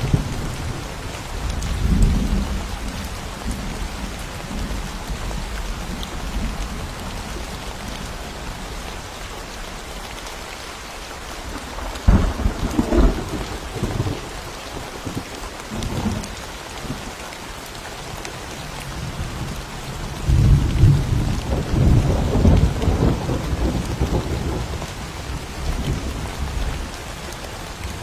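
Steady rain falling in a forest during a thunderstorm, with thunder rumbling several times. There is a rumble near the start, a sharper crack about twelve seconds in, and a long rolling peal from about twenty to twenty-five seconds.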